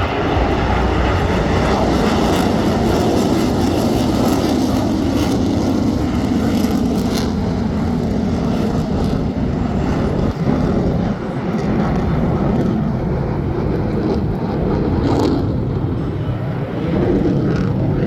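Loud, steady jet noise from KAI T-50B jets' turbofan engines flying an aerobatic display. The noise dips briefly about ten seconds in, then builds again.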